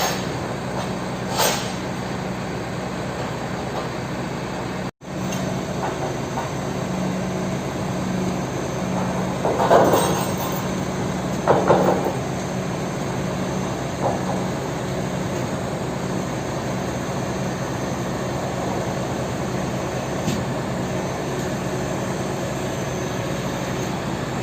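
Mitsubishi Fuso Super Great truck's diesel engine running steadily with a constant low hum, with a few short louder noises about ten and twelve seconds in.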